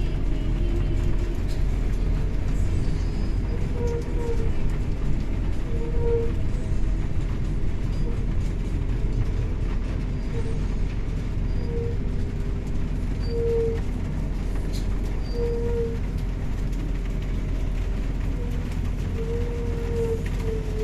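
Steady low rumble, like a vehicle running, with short pitched tones sounding every couple of seconds.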